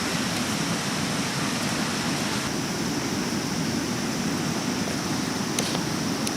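Mountain river water rushing steadily, a continuous roar of flowing water, with a couple of faint ticks near the end.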